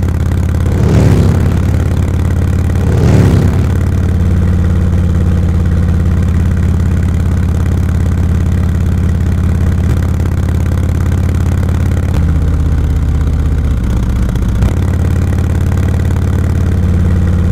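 Motorcycle engine pulling at low road speed. The revs rise twice in the first few seconds, and the engine note steps down about twelve seconds in.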